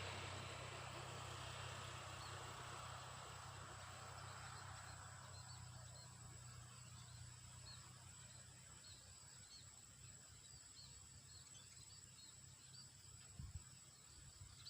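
Faint rural outdoor ambience. A distant engine drone fades away over the first half, small high chirps repeat about once a second, and a single low thump comes near the end.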